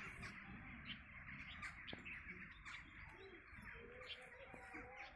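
Faint chorus of many birds chirping, with short sharp calls throughout.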